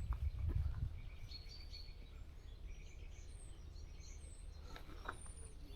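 Faint, scattered chirps and short high whistled calls of small songbirds, after a low rumble in the first second.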